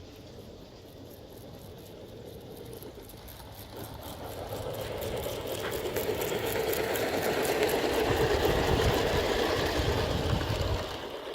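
G scale model train running on garden track, getting louder as it approaches, loudest a little before the end and then dropping off. Its wheels click at a steady, even rhythm.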